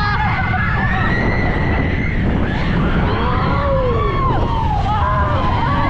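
Mine-train roller coaster running along its track with a loud, steady low rumble, and riders yelling and whooping, their voices rising and falling over it.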